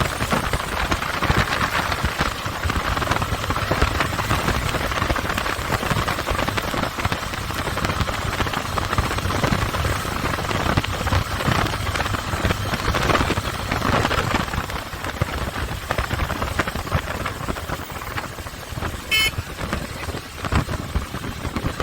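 Motorcycle on the move, engine rumble under heavy wind buffeting on the microphone, with a brief high-pitched chirp near the end.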